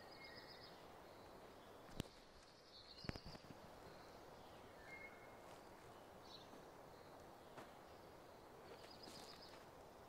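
Near silence in the forest, broken by a few faint, brief bird chirps and trills and a single sharp click about two seconds in.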